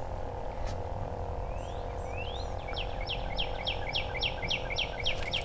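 A bird singing: a rising whistle about two seconds in, then a run of about ten quick down-slurred whistles, some three a second, over a steady hum.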